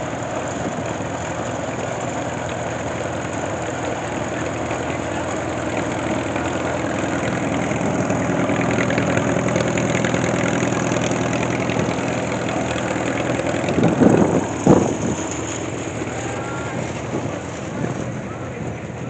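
An engine running steadily, growing louder toward the middle and easing off again. Two brief, louder sounds stand out about fourteen seconds in.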